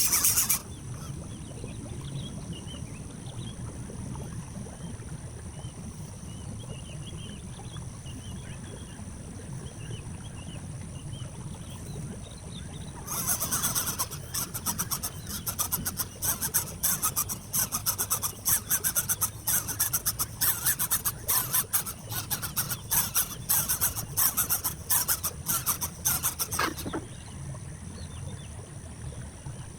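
Rapid scratchy rustling and rubbing, like dry twigs or leaves being worked, for about fourteen seconds starting near the middle. Under it runs a steady high-pitched whine, with faint small chirps in the first part.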